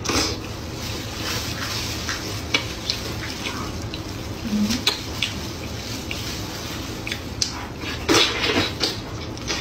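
Close-miked wet chewing and lip-smacking of someone eating a glazed braised pork knuckle, a scatter of small sticky clicks over a low steady hum. A louder cluster of wet biting sounds comes about eight seconds in.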